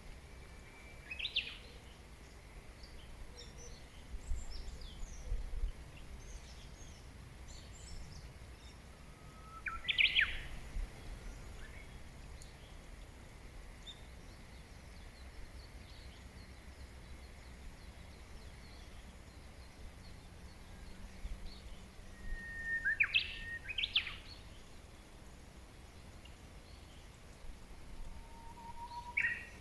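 Wild songbirds singing: a louder whistled song, a held note followed by a quick rising flourish, comes four times, with faint high chirps from other birds in the first half and a low background rumble.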